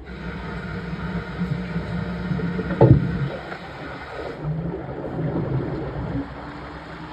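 Washing machine running, water sloshing and churning in the drum, with one sharp knock about three seconds in.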